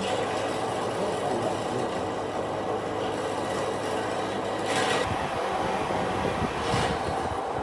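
A power tool working wood, a steady rattling rumble with two brief sharper scraping strokes about five and seven seconds in.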